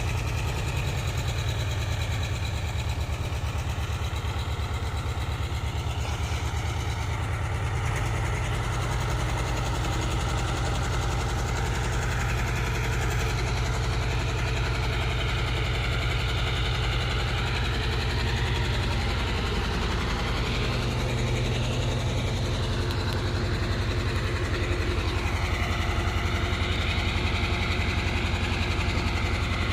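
Diesel engine of a heavy container truck loaded with 24 tonnes, running steadily, its pitch drifting slowly up and down.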